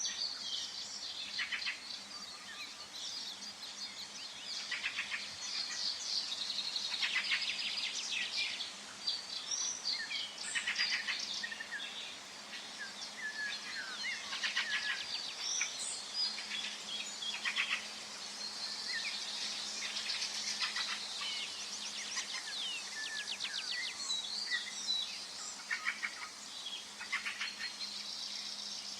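Several songbirds singing and chirping at once, with short whistled phrases and rapid trills overlapping throughout, over a faint steady background hum.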